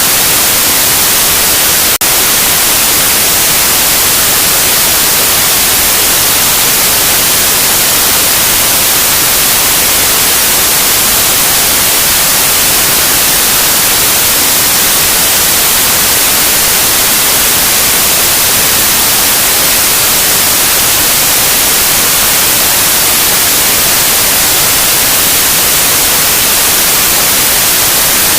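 Loud, steady white noise: an even, unchanging hiss across all pitches, brightest in the highs.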